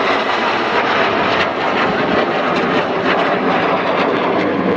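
BAE Hawk T1 jet trainers flying past in formation: a loud, steady jet-engine rush that holds without a break.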